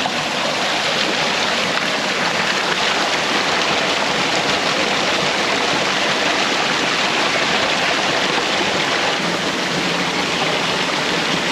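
Waterfall pouring into a freshwater pool: a steady, even rush of falling water that does not change.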